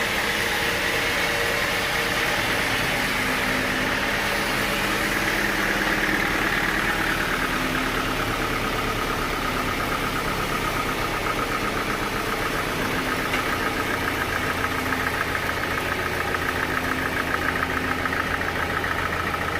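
Sawmill machinery with an engine running steadily. About a third of the way in its main pitch drops, and a fast, even pulsing runs through the sound from then on.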